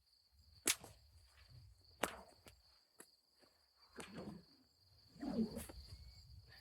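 Nylon bullwhip cracking: two sharp cracks about a second and a half apart, then softer swishing and rustling as the whip is swung and drawn back. A steady high insect chirr, like crickets, runs underneath.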